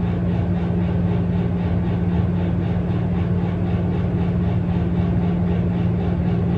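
A steady mechanical hum, one low tone over an even rushing noise, running unchanged throughout.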